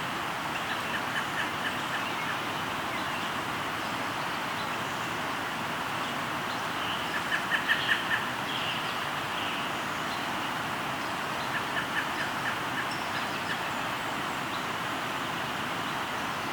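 River water flowing steadily, with a bird calling in quick runs of short, evenly spaced notes three times: about a second in, louder around eight seconds in, and again around twelve seconds in.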